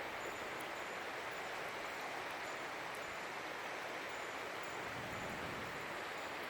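Steady rush of a mountain stream's flowing water, an even hiss without breaks.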